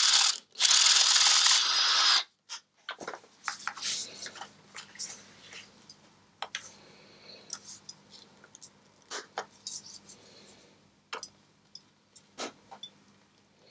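Power drill drilling out a rivet on an exhaust silencer for about two seconds, then stopping abruptly. Then scattered light metallic clicks and scrapes as the parts and tools are handled.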